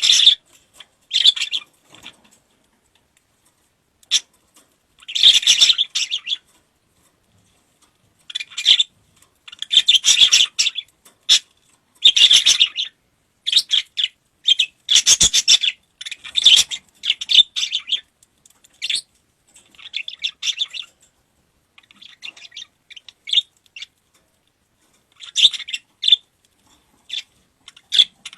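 Lovebirds chattering and calling in irregular high-pitched bursts, with short pauses between them.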